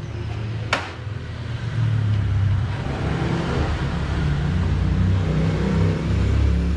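Bosch GTS 10 XC table saw running steadily, after a sharp click just under a second in; the running noise grows louder about two seconds in.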